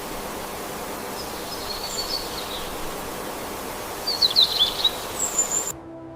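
Steady outdoor nature ambience, an even rushing hiss, with a few short high bird chirps and twitters scattered through it. Near the end the ambience cuts off suddenly and music begins.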